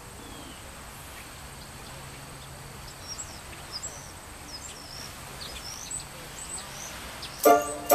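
Small birds chirping in short, high notes over a steady outdoor hiss. Near the end, louder music with struck keyboard-like notes comes in.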